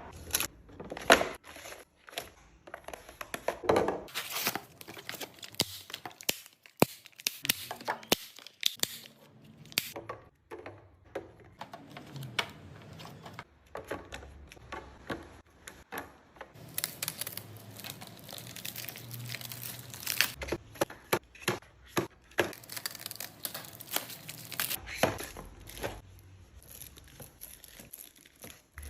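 Plastic packaging crinkling and tearing as groceries are unwrapped, with many small clicks and knocks of items being handled and set down. Longer stretches of continuous rustling come about halfway through and again near the end.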